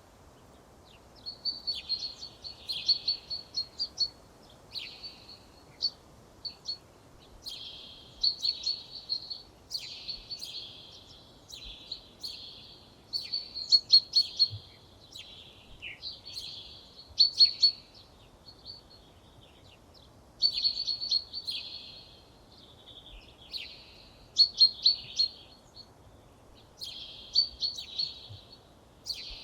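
A songbird singing a continuous run of short, high phrases of rapid notes, each a second or two long, with brief pauses between them.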